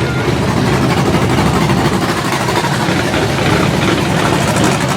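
Car engines idling and running steadily.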